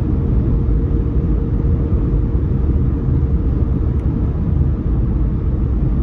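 Steady low road rumble inside a moving car's cabin, with a faint steady hum that fades out partway through.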